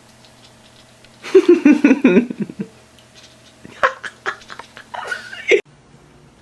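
A person laughing in a quick run of short bursts for about a second, followed by a few faint clicks and brief sounds.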